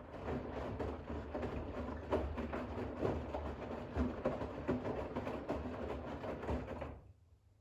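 Bosch WAX32GH1 front-loading washing machine drum tumbling a load of towels in rinse water, with irregular sloshing and soft thuds, during the second rinse; the drum stops abruptly near the end.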